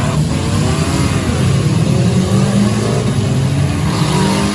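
Many demolition derby cars' engines running and revving together, loud, with several pitches rising and falling over one another.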